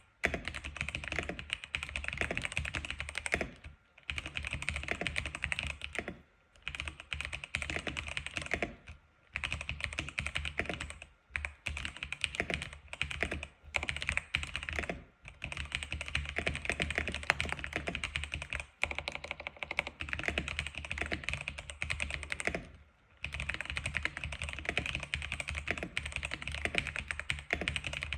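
Continuous fast typing on an X87 keyboard: a dense run of keystroke clicks, broken by short pauses every few seconds.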